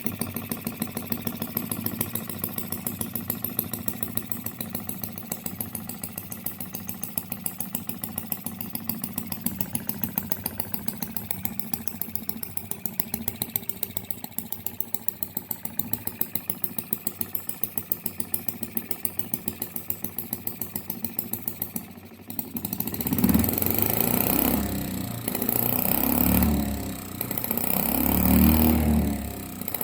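OKMO 1105B model single-cylinder engine running with an even, fast firing beat. About 22 seconds in, it turns louder and rougher, swelling and falling.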